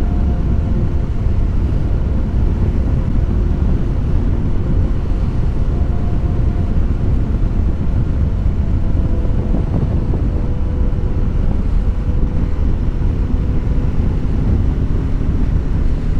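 Wind buffeting the microphone over the steady drone of a BMW G 310 GS's single-cylinder engine while riding.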